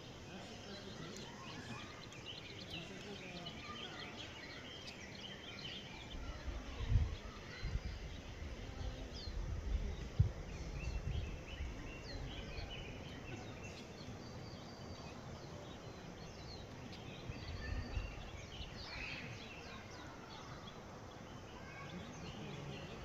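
Forest birdsong: several birds calling with short chirps and whistles, overlapping throughout. Low rumbles come and go from about six to twelve seconds in and again near eighteen seconds.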